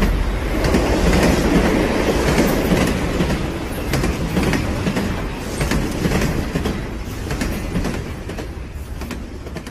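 Train running past, a heavy rumble with the wheels clicking over rail joints. It slowly fades and then cuts off abruptly at the end.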